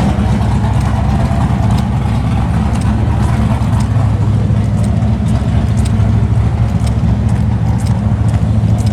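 Car engine running steadily, a constant low drone with no change in revs.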